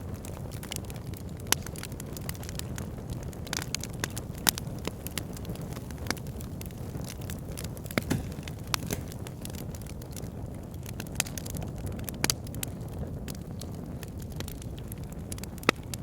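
Fire pit crackling: frequent sharp pops, a handful of them louder, over a steady low rumble.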